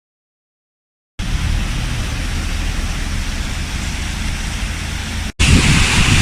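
Silence for about a second, then steady outdoor hiss with wind buffeting the microphone in low rumbles. After a sudden cut near the end, the hiss and rumble are louder.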